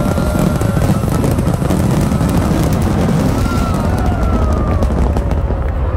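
A loud, dense fireworks barrage: shells bursting in rapid crackles and pops over a continuous low rumble of booms.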